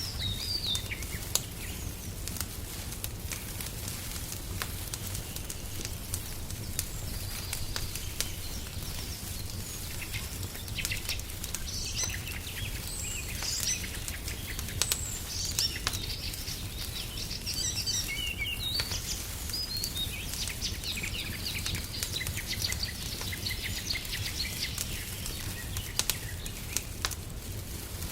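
A wood fire crackling in a fireplace, with scattered sharp pops over a steady low rumble. Songbirds chirp and twitter in several runs through the middle and later part.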